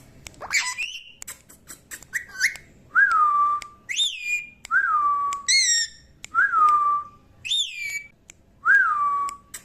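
Parrot whistling a repeated phrase. A lower whistle rises briefly and then holds, and a higher, sliding whistle answers it. The two alternate several times after a few short chirps at the start.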